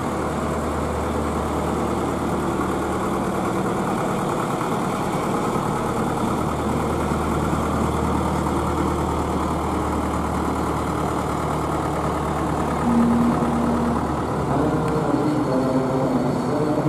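Small local bus engine idling with a steady low hum, with a brief louder tone about thirteen seconds in and a few pitched tones near the end.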